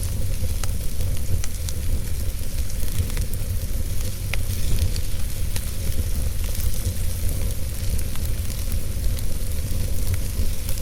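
Wood fire burning in a fireplace: scattered sharp crackles and pops over a steady low rumble of the flames and a soft hiss.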